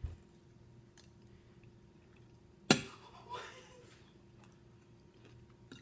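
Quiet dinner-table sounds: a few faint clicks and one sharp clack of tableware a little under three seconds in.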